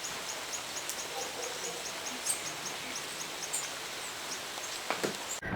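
A small creature, insect or bird, making rapid high-pitched chirps about five times a second over a steady outdoor hiss; the chirping stops about four seconds in.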